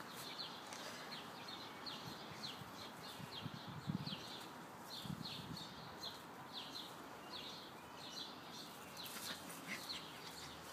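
Small birds chirping over and over, short high chirps that fall in pitch, about one or two a second, with faint low rustles and bumps around four and five seconds in.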